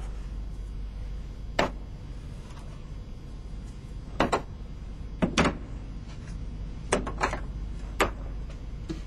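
A series of sharp knocks or clicks, about seven at uneven intervals with two pairs close together, over a steady low hum.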